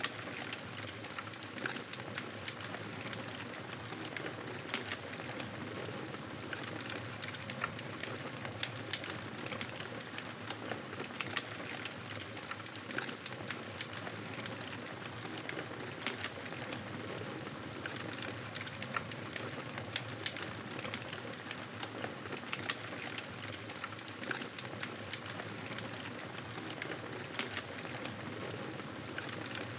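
Campfire burning: a steady hiss with frequent small crackles and pops from the burning wood.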